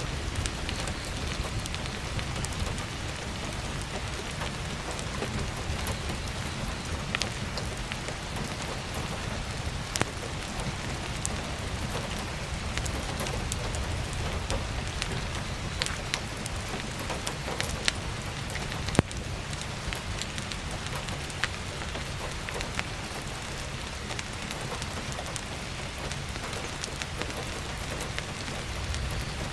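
Steady heavy rain with a low rumble, with scattered sharp crackles and pops of burning firewood in a wood stove, the loudest pop about 19 seconds in.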